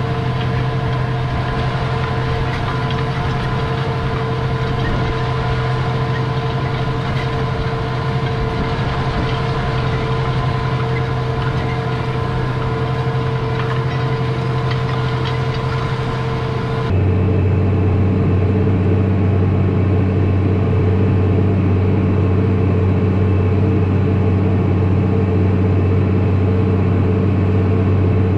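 Tractor engine running at steady revs with a constant hum. About two-thirds of the way through, the sound cuts abruptly to a lower-pitched, slightly louder steady engine drone.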